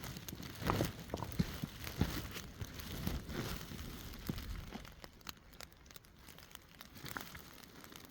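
Crinkling, rustling rain-jacket fabric with scattered irregular ticks and taps, growing fainter after about five seconds.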